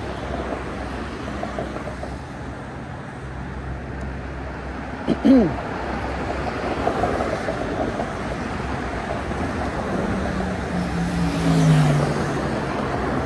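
Wind and road noise on the microphone of a moving e-bike in city traffic. A short, loud sound with a falling pitch comes about five seconds in, and near the end a vehicle passes, its engine note dropping in pitch.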